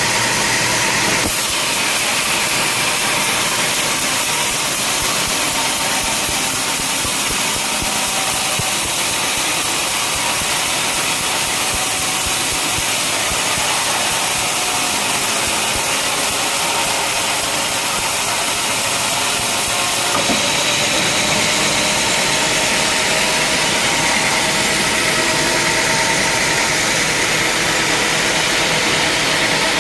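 Sawmill machinery running: a loud, steady mechanical noise with a strong high hiss. The sound shifts abruptly about a second in and again about two-thirds of the way through.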